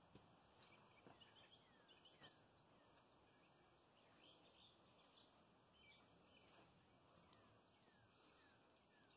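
Near silence with faint, scattered bird chirps; one sharper chirp stands out about two seconds in.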